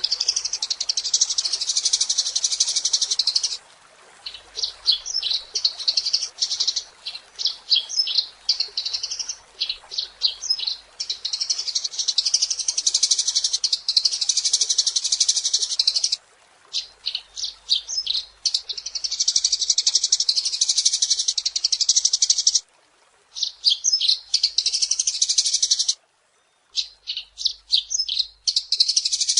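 Eurasian tree sparrow chirping: stretches of fast, unbroken high chatter alternating with runs of separate sharp chirps, with a few short pauses.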